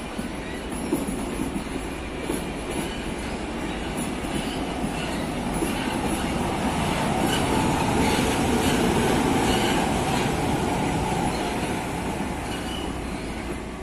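Passenger coaches rolling past behind a red HŽ diesel shunting locomotive, with occasional wheel clicks over the rail joints. The sound swells as the shunter draws level, loudest about two-thirds of the way through, then eases off.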